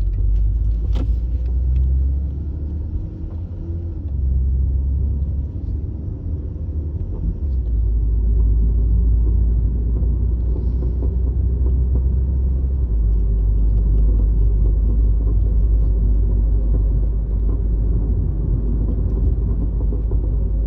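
Honda Accord (CU2) on the move, with a steady low rumble. The owner reports an abnormal noise from the right front suspension whose cause he does not know.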